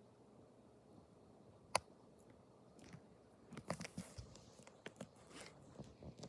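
1980s SMC Laguna 36-inch ceiling fan running on medium speed, a faint steady hum. One sharp click comes a little under two seconds in, and a cluster of clicks and rustles follows in the second half.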